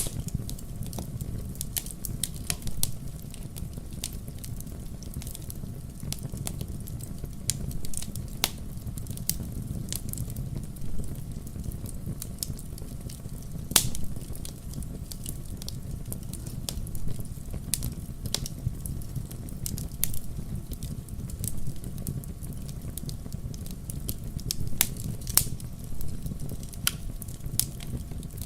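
Wood fire burning in a fireplace: a steady low rumble of the flames with irregular sharp crackles and pops from the logs, a few each second, with a louder pop about halfway through.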